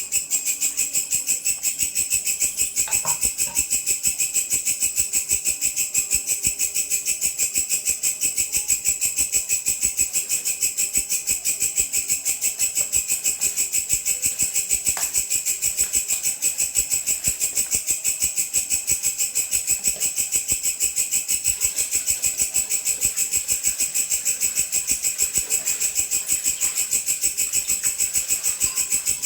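A belalang (grasshopper) singing: a continuous high, fast and evenly pulsing buzz that keeps a steady rhythm without a break.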